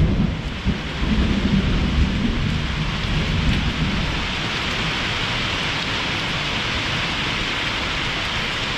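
Thunder rumbling for about four seconds over heavy rain, the rumble fading out and leaving the rain pouring steadily.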